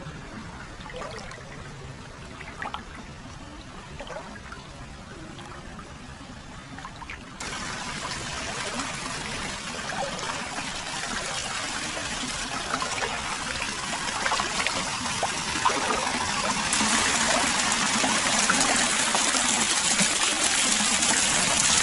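Hot-spring water flowing and splashing into an open-air foot bath. It starts as a quieter trickle with small drips, then abruptly gets louder and rushing about seven seconds in, and louder again a few seconds before the end.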